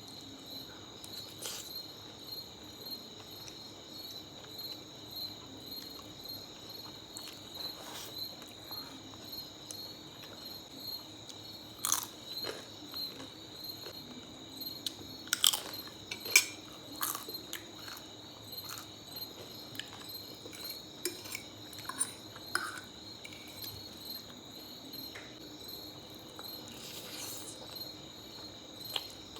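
Close-up mouth sounds of someone eating spaghetti: scattered wet clicks and smacks of chewing, loudest and most frequent around the middle. Crickets chirp steadily underneath.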